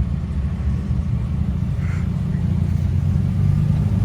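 A car's engine and exhaust rumbling low and steady at slow speed, growing gradually louder.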